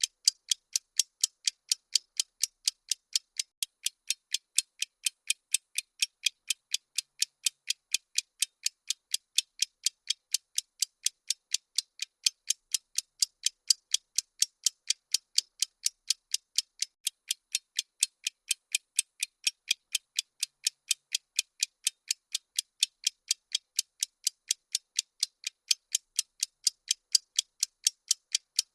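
Bomb-timer ticking sound effect: a steady, even run of short, sharp, high-pitched ticks, about three a second.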